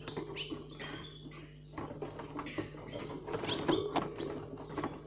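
Young nestling birds chirping: many short, quick, squeaky calls, busiest about three to four seconds in.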